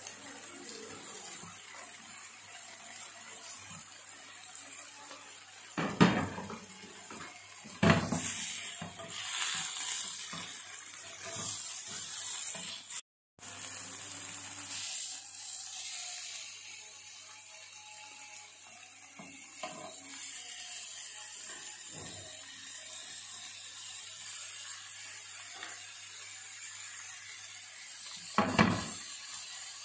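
Beef keema kababs sizzling in a little oil on a non-stick grill pan, a steady frying hiss, with a few knocks and scrapes of a spatula against the pan.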